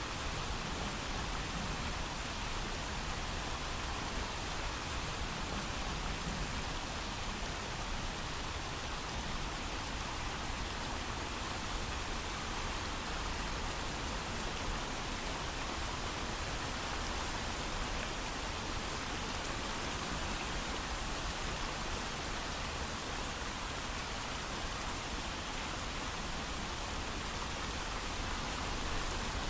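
Steady rain falling, an even hiss of heavy rain with no thunder.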